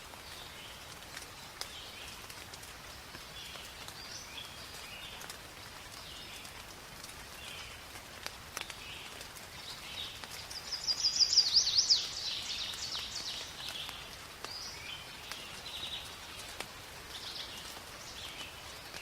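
Rain falling steadily in a forest, with scattered drops ticking and birds calling throughout. About ten seconds in, one bird gives a loud, quick run of rapid sweeping chirps lasting about a second and a half.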